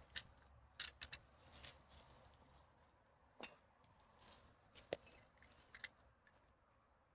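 Scattered rustles, crinkles and light clinks of litter being picked up and handled in undergrowth, coming at irregular moments.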